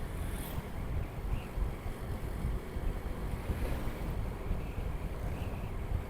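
Wind buffeting an action camera's microphone on a moving motorcycle, a steady low rumble of wind, road and engine noise that swells and dips unevenly.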